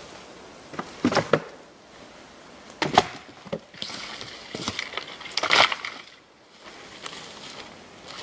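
Dry dead wood and bark being gathered and handled on the forest floor: scattered cracks and snaps with rustling, the loudest about three and five and a half seconds in.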